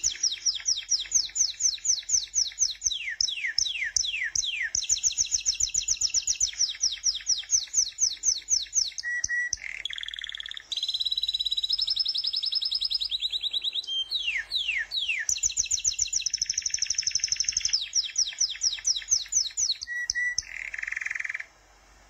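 Songbird singing: long rapid series of high chirps sweeping downward, several a second, with a faster steady trill about halfway through. The song cuts off suddenly near the end.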